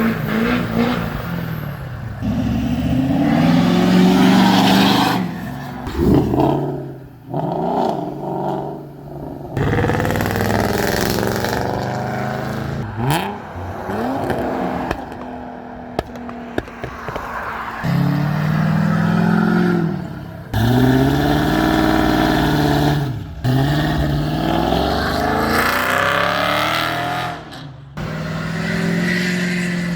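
Ford F-250's 6.7 L Powerstroke V8 turbodiesel accelerating hard, its engine pitch climbing and dropping back with gear changes, in several short passes joined by abrupt cuts.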